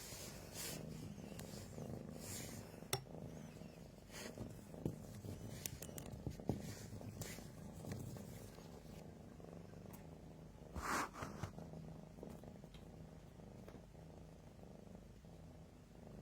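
Cat purring quietly and steadily, with scattered light clicks and scuffs from play and a brief rustling burst about eleven seconds in.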